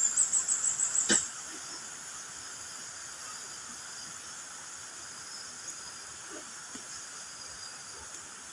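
Forest insects calling in a steady high-pitched chorus. A loud, rapid pulsing call of about eight beats a second opens it and ends about a second in with a sharp click.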